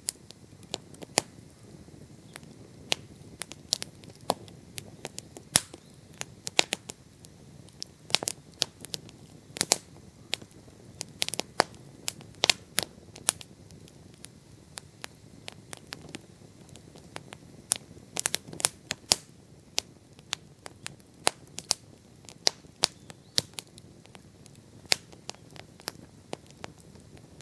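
Wood bonfire burning, crackling with irregular sharp pops and snaps, a few louder cracks among them, over a faint low rush of the flames.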